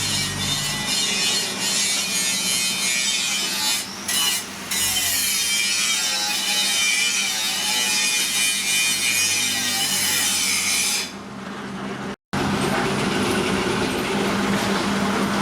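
Power tool grinding steel: a steady, hissing grind that dips briefly twice about four seconds in and softens shortly before a sudden break, then picks up again.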